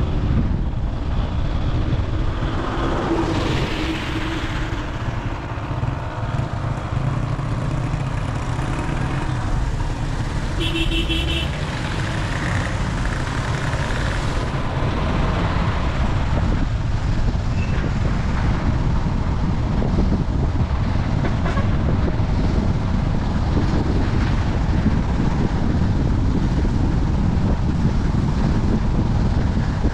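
Steady road rumble and wind noise from a car on the move. A vehicle horn toots briefly about eleven seconds in.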